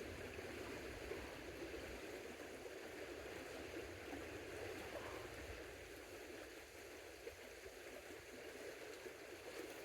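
Creek water flowing steadily, a faint even rush, with a few faint clicks near the end.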